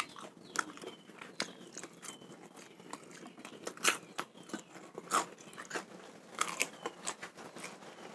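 Close-miked chewing of raw fish: irregular wet clicks and smacks from the mouth working on flesh that is still tough.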